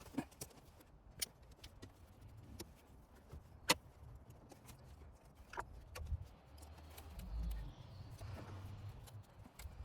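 Scattered light clicks and clinks of hand tools and metal parts being handled while hoses and fittings are taken off a 22RE engine. The sharpest click comes a little under four seconds in, and a low rumble rises about seven seconds in.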